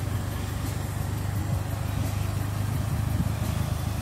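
2016 Polaris Slingshot's 2.4-litre four-cylinder engine idling with a steady low hum.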